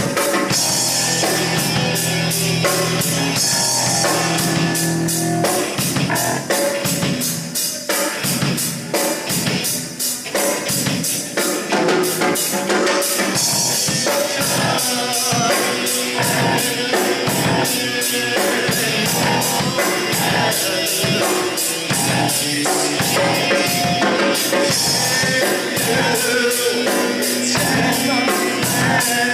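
A live rock band playing a song: a drum kit keeping a steady fast beat under guitar and singing, with poor recorded sound.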